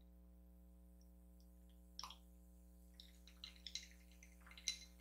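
Near silence: a steady faint electrical hum, with a few small soft clicks about two seconds in and again in the second half.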